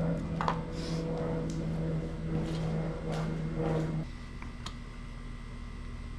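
Small metal clicks and taps from hands working a small engine's carburetor linkages loose, over a steady low hum that stops abruptly about four seconds in.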